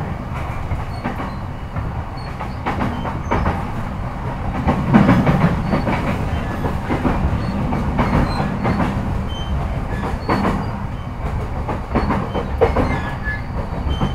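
JR E233-5000 series electric commuter train running, heard from inside a motor car: a steady low rumble with wheels clicking over rail joints at irregular intervals, swelling briefly about five seconds in.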